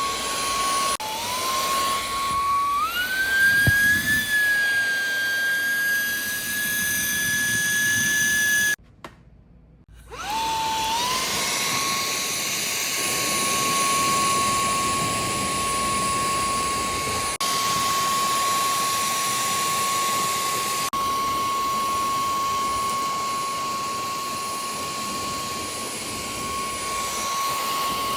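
Nvriow cordless stick vacuum's motor running with its 2-in-1 tool, a steady high-pitched whine. About three seconds in it speeds up to a higher pitch. About nine seconds in it is switched off for a second, then spins back up to its first, lower speed.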